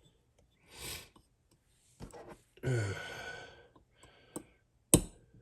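A man's breath and a voiced sigh, small clicks of parts being handled, then near the end one sharp tap of a hammer on a roll pin starter punch, driving a roll pin into an AR-15 lower receiver.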